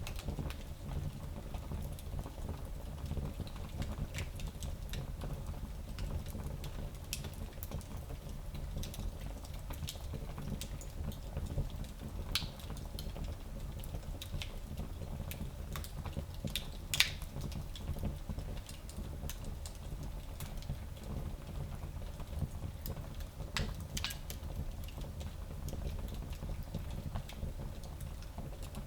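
Fire burning in a small fireplace: a low steady rumble with scattered crackles and pops, the sharpest pop about 17 seconds in.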